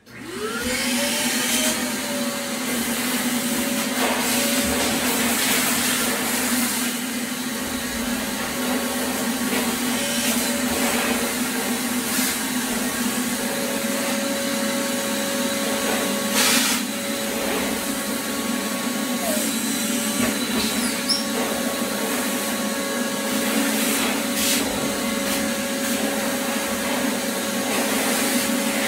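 Vacuum cleaner switched on, its pitch rising as the motor spins up in the first second, then running steadily, with a few sharp clicks along the way.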